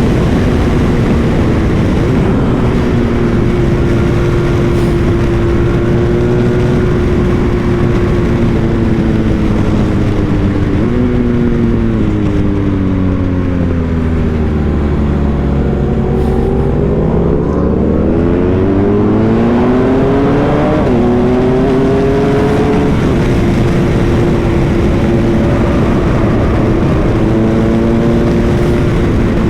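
BMW R 1250 GS Adventure's boxer-twin engine heard on board while riding, under a steady rush of wind. The engine note sinks steadily for a few seconds as the bike slows, then climbs back as it accelerates, with a few sudden steps in pitch from gear changes.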